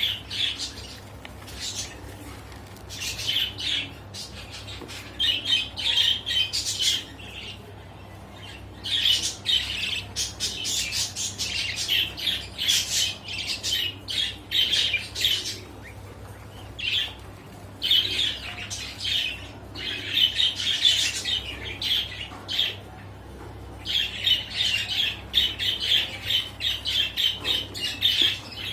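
Japanese Hagoromo frill canary singing: repeated phrases of rapid, high chattering notes, each a second or few long, separated by short pauses.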